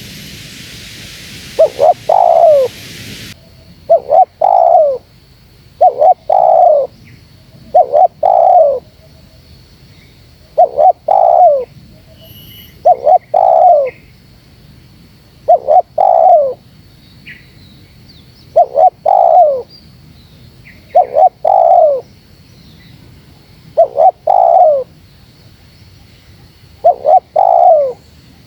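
Spotted dove cooing, a short phrase of two or three notes that falls at the end, repeated about every two seconds in close succession. This is the pressing, rival-challenging call used to lure wild spotted doves. A faint hiss cuts off about three seconds in.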